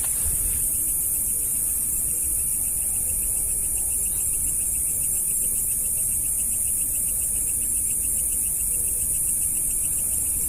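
Dusk insect chorus: a steady, high-pitched shrill hiss of insects, with a fainter, rapidly pulsing trill beneath it. Low wind rumble on the microphone.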